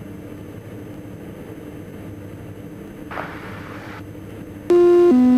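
Steady drone of the Diamond DA42's twin diesel engines heard over the cockpit intercom, with a short hiss about three seconds in. Near the end a loud two-note cockpit alert tone sounds, a higher note stepping down to a lower one.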